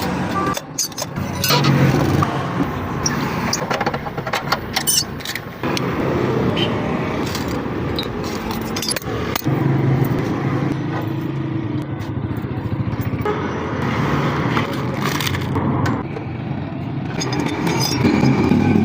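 Metal parts and hand tools clinking, knocking and scraping many times, the work of taking apart a motorcycle rear shock absorber to change its spring. A steady hum of vehicle traffic runs underneath.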